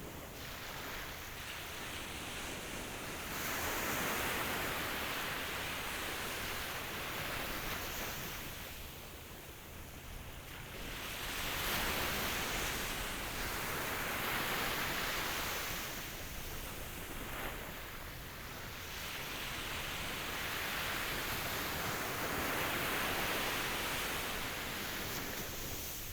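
Ocean waves breaking and washing ashore: a steady hiss of surf that swells and recedes in slow surges, about three in the stretch.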